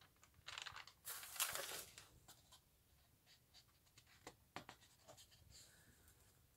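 Faint handling of a photo album's pages: two rustling swishes of paper in the first two seconds, the second louder, then light taps and rubs.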